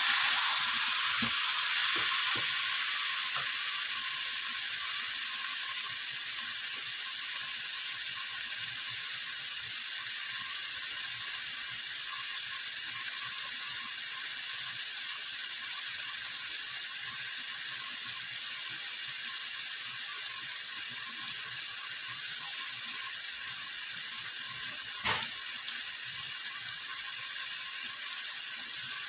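Chicken pieces sizzling in a pot, with a wooden spoon stirring and knocking against the pot at the start. The sizzle then settles to a steady hiss, and there is a single knock about 25 seconds in.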